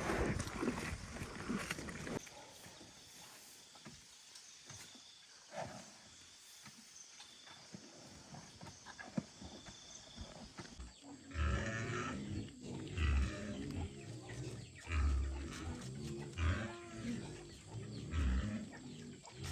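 Pigs grunting: a string of short, low grunts, one every second or so, in the second half.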